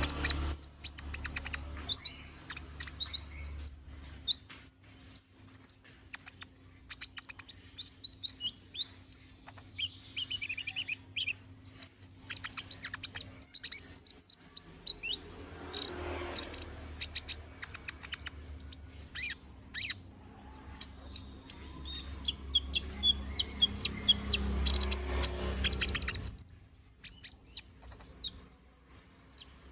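Kolibri ninja (konin), a small sunbird, singing a fast, varied run of high chirps, twitters and trills: the bird in full song, running through its repertoire of phrases. The song breaks off for a moment near the end, and a faint low rumble and hum sit underneath.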